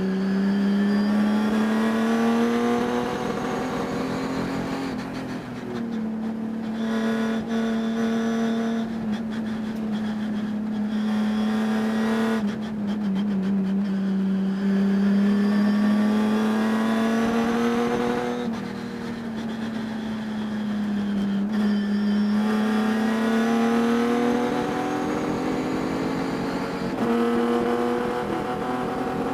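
Race car engine running hard during a race, its pitch climbing slowly and then dropping, again and again, as it accelerates and backs off. The owner reports a high-RPM miss that can be heard throughout the race.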